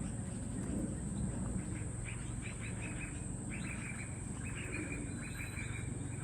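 Birds chirping in rapid runs of short, high chirps, about five a second, starting about two seconds in, over a steady high-pitched drone.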